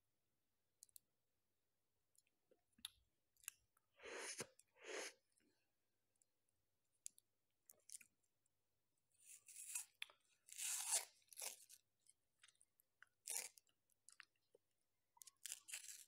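Biting and chewing a crunchy wafer ice-cream cone, heard close up: separate crunchy bites with small mouth clicks between, the loudest cluster of crunching a little past the middle.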